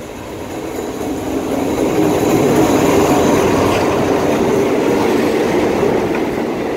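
Passenger train pulling into the station and running past the platform, its carriages passing close by. The noise swells to a peak about three seconds in, then eases a little as the coaches roll by.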